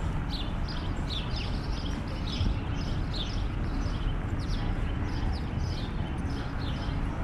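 Small birds chirping repeatedly in short falling notes, about two or three a second, over a steady low rumble of street noise.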